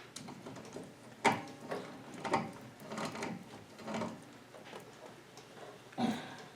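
Several separate sharp metal clicks and clanks of tools and wheel-hub parts being handled, the loudest about a second in and another near the end.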